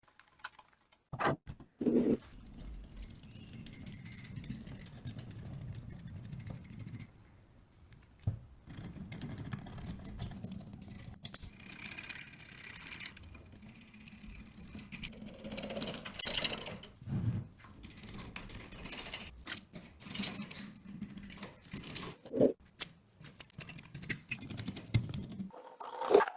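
Irregular metallic clinks, knocks and scraping as the rusty iron parts of an antique chaff cutter are handled and worked on.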